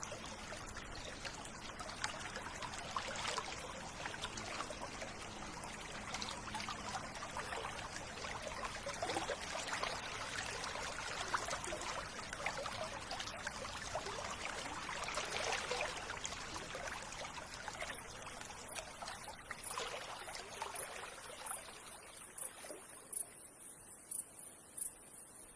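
River water flowing and trickling. The water sound thins out near the end, and during the last third a very high-pitched chirp repeats several times a second.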